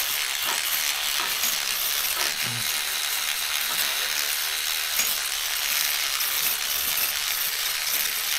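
Electric cleaning brush scrubbing soapy typewriter keys: a steady hiss that starts suddenly as the brush is switched on.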